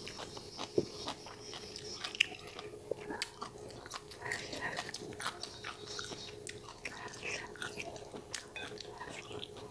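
Close-miked chewing of crunchy stir-fried chicken gizzards and greens: wet mouth sounds with a dense run of short sharp crunches and clicks.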